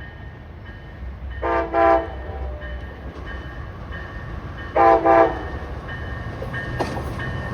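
Locomotive air horn sounding two short blasts, then two more about three seconds later, over a steady low rumble of the train, with a faint ring repeating evenly in the background.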